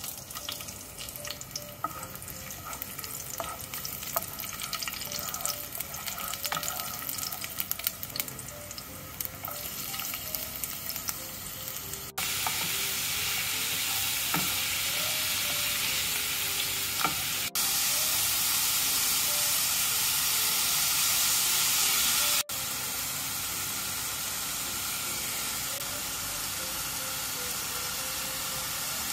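Sliced garlic sizzling in hot oil in a frying pan, with light taps and scrapes of a wooden spatula. From about twelve seconds in, a louder steady sizzle and hiss as onion, bell peppers and mushrooms stir-fry. Quiet background music plays underneath.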